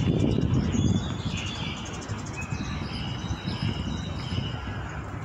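Small birds chirping in short high calls over a low rumbling background that is loudest in the first second.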